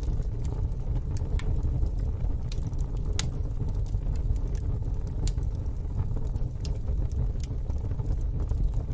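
Wood fire in a fire pit crackling, with scattered sharp pops every second or so over a steady low rumble.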